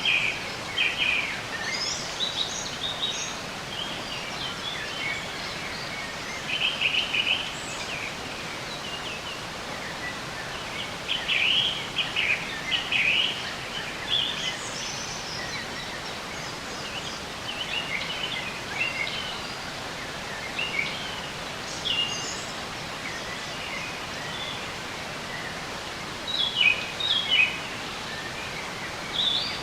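Many birds chirping and trilling in short phrases over a steady background hiss of running water or wind in leaves.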